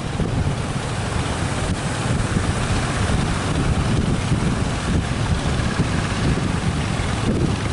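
Strong wind buffeting the microphone in a steady rough rumble, over the wash of the sea.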